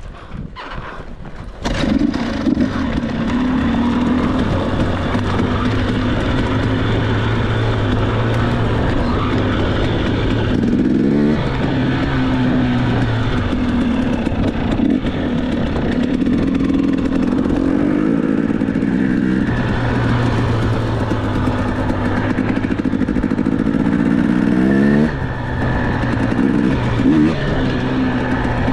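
Dirt bike engine running under way, its pitch rising and falling as the throttle is opened and closed. It comes in loudly about two seconds in, after a short quieter stretch with a few clicks.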